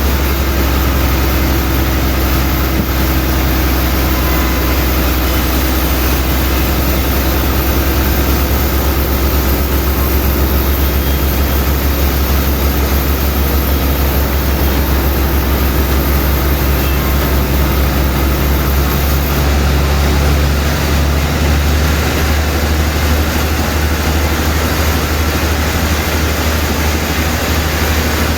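Sawmill machinery running steadily, a loud, continuous engine drone with a deep hum.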